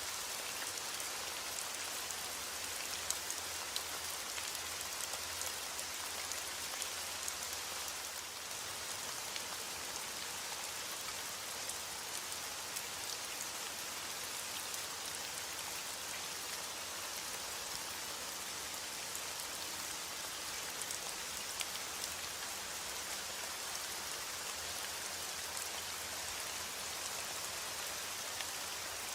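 Steady rain falling: an even hiss of drops, with scattered sharper ticks of single drops.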